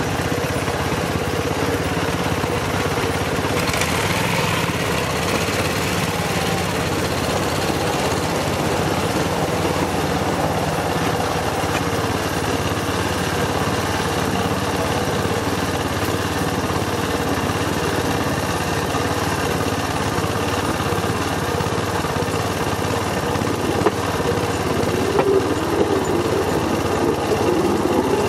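Small engine of a Cambodian bamboo train (norry) running at a steady pace, a constant mechanical drone with no let-up.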